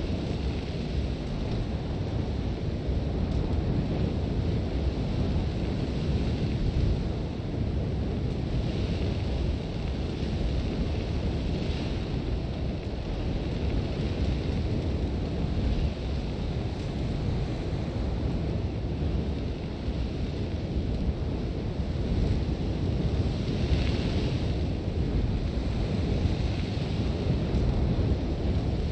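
Strong sandstorm wind, a steady low rumble with a hiss of blowing sand that swells up several times.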